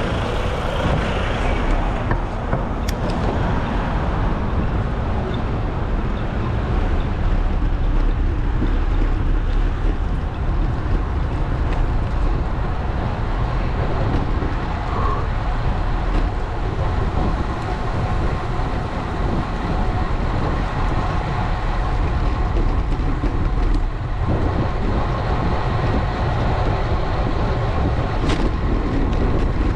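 Steady wind and road noise from riding a road bike in city traffic, with traffic passing.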